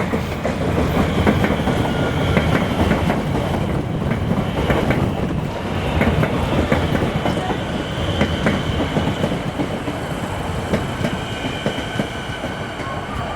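Siemens electric suburban train running into a station: a steady rumble with wheels clicking over rail joints. In the second half, thin high squealing tones appear and the rumble eases slightly as it slows.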